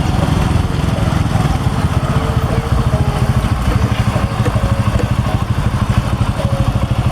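A small motorcycle engine running, with a fast even low pulsing that grows distinct about a second and a half in.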